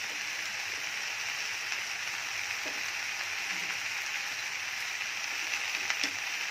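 Ivy gourd, onion and tomato frying in oil in a pan: a steady sizzling hiss, with a few faint clicks near the end.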